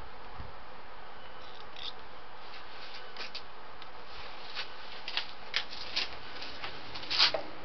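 A few light clicks and taps, irregular and growing more frequent in the second half, the loudest near the end, over a steady background hiss.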